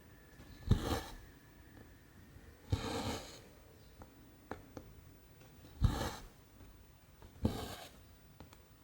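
Needle and cotton thread going through 14-count cross-stitch canvas, four times over: each stitch is a sharp tap as the needle pierces the cloth, then a short rasp as the thread is drawn through. A few faint ticks come between the stitches.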